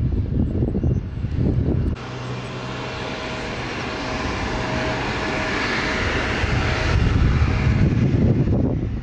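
Jet airliner engines: a rushing noise with a steady whine that swells and then eases, set between stretches of low rumble near the start and near the end.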